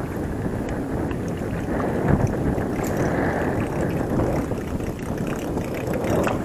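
Strong wind buffeting the microphone, a steady low rumbling noise.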